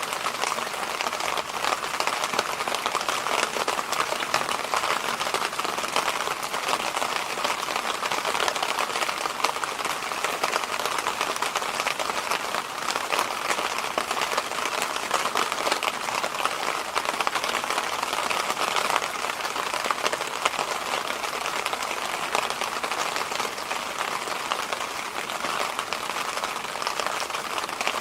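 Electric fan running steadily: an even rushing noise, strongest in the middle range, with little low rumble.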